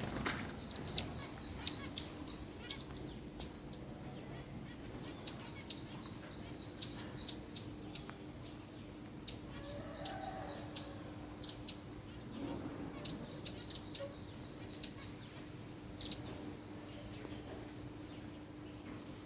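Small birds chirping: short, high calls in quick runs, over a faint steady hum.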